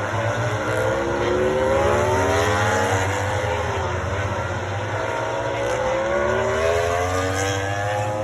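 Racing motorcycle engines at high revs, their pitch climbing steadily twice as the bikes accelerate, over a steady low hum.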